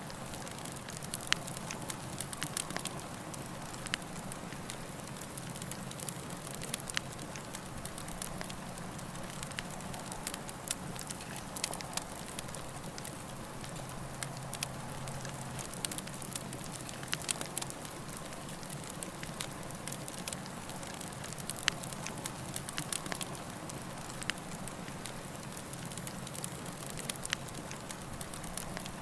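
Campfire burning, with a steady low hiss and frequent sharp, irregular crackles and pops from the burning wood.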